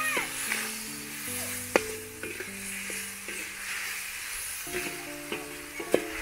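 Chopped tomatoes, peppers and onions sizzling in oil in a metal pan, stirred with a metal skimmer that scrapes and clicks against the pan a few times. Background music with held notes plays underneath.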